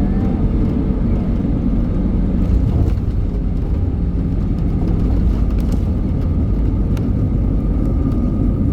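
Steady roar of engine and airflow noise inside the cabin of an Airbus A320 airliner, with a faint steady whine on top.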